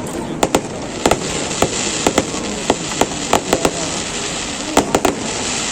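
Fireworks display: a rapid, irregular volley of sharp bangs from bursting shells over a steady hiss.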